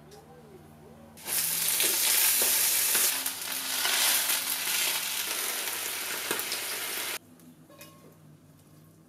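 Food sizzling in hot oil in a pan: a loud, even hiss that starts suddenly about a second in and stops suddenly about six seconds later.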